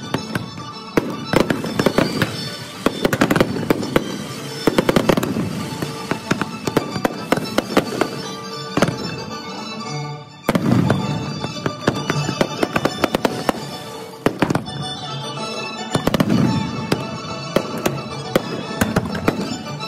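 Aerial fireworks bursting in rapid succession, with booms and dense crackling, played back at double speed. Music plays alongside.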